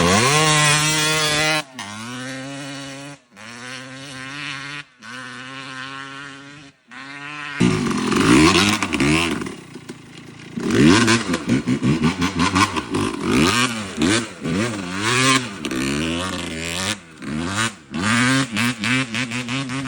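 2003 Yamaha YZ250's single-cylinder two-stroke engine: a high rev falling away, a steadier low running note broken by short dropouts, then from about seven and a half seconds in, a rapid series of throttle blips, each rev rising and falling quickly, which give the two-stroke chirp.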